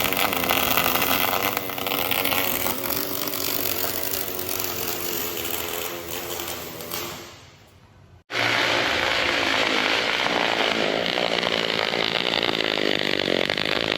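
Loud, steady power-tool or machine noise that fades out about seven seconds in. After a sudden cut, a second steady machine sound runs on and stops at the end.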